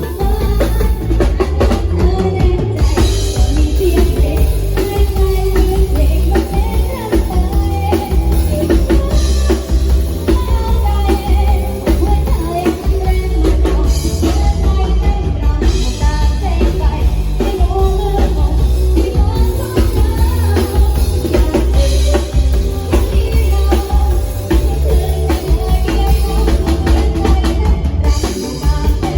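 Band music played loud through a PA sound system: drum kit with a heavy bass drum and bass under a melody line, with some singing.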